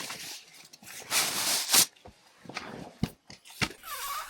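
Rustling and handling noises: a loud rustle lasting about a second starts about a second in, then two sharp knocks near the three-second mark.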